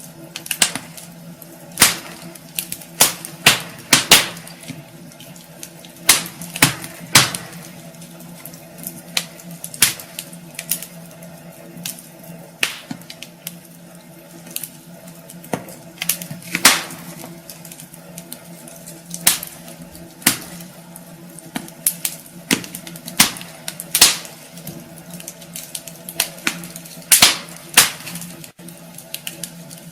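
Wood fire burning in a fireplace, crackling with irregular sharp pops and snaps, over a faint steady hum.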